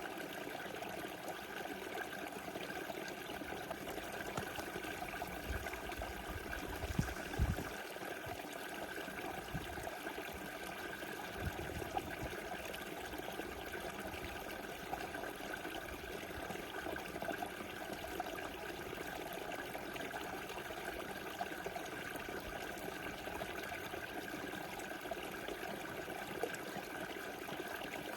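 Small river flowing steadily, a continuous rushing and trickling of water, with a few brief low thumps around seven and eleven seconds in.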